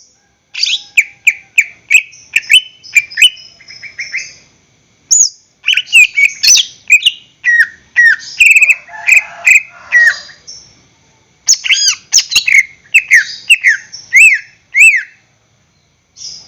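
Greater green leafbird (cucak ijo) singing: three rapid, loud bursts of sharp, down-slurred whistled notes mixed with clicks, separated by short pauses.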